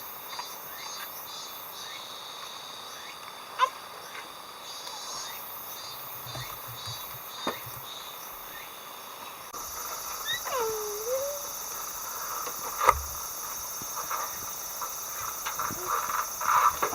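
Insects chirping in quick pulses, turning into a steady high hiss about halfway through. About ten seconds in, one animal call slides down in pitch and then back up, and a few sharp clicks stand out.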